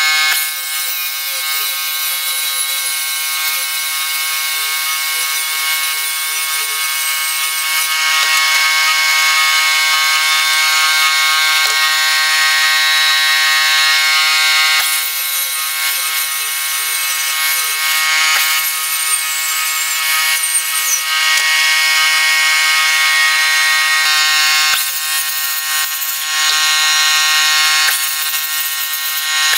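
A workshop machine running steadily, with a continuous hiss and several steady whining tones. Its level drops briefly a few times.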